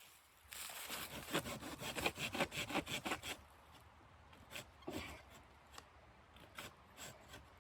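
Rhythmic rasping strokes, about three a second, for nearly three seconds, then a few scattered softer rubs and knocks.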